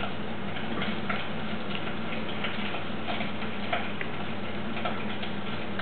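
Liver frying in oil with shallots and garlic in a pan: a steady sizzle with scattered small pops and crackles.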